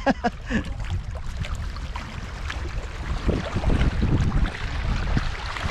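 Wind buffeting the microphone over the wash of the sea, with a low rumble that swells about halfway through.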